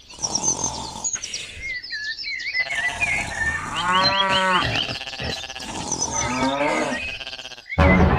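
A cow mooing over birds chirping, a farmyard soundscape. Music starts abruptly near the end.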